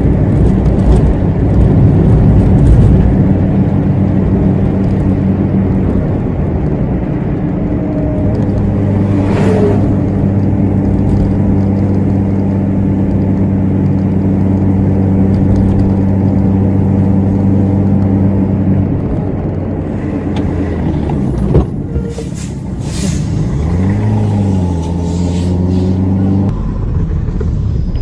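Vehicle engine running steadily over road noise, heard from inside a car. Near the end its pitch dips and climbs again.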